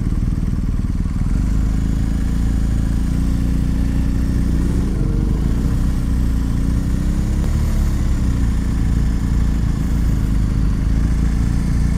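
Motorcycle engine idling steadily, with gentle rises in revs about four seconds in, again a few seconds later, and once more near the end.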